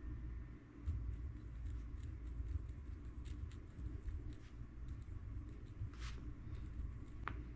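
Pen writing on a book page: a run of small scratching ticks as the tip moves over the paper, with one longer stroke about six seconds in, over a low steady rumble.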